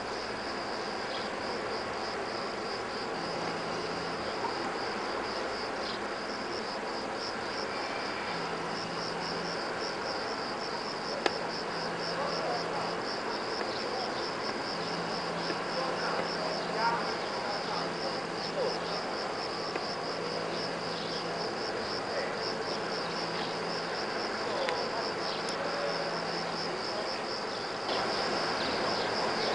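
Crickets chirping in a steady, even, rapid pulse, high-pitched, over faint background ambience. There is a single brief click about eleven seconds in.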